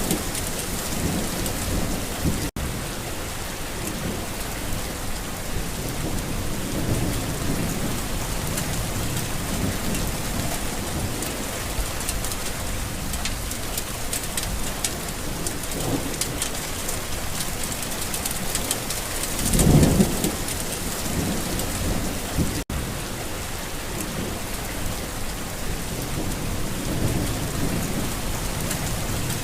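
Steady, heavy rain with rolling thunder. Several low rumbles swell and fade, the loudest about two-thirds of the way through. The sound cuts out for an instant twice.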